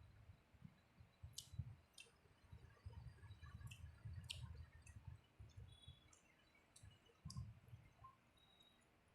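A person chewing and eating, with soft chewing thuds and scattered wet mouth clicks and smacks, heard close and quiet.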